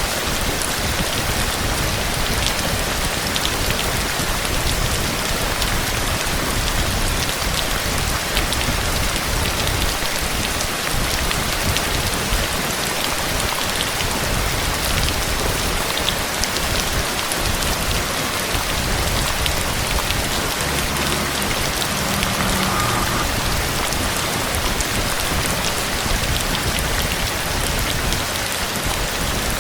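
Heavy rain falling steadily, a dense even hiss of drops with a low rumble beneath it.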